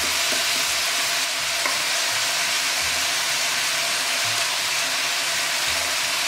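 Peppers, sweet corn and kidney beans frying in a pan: a steady sizzle.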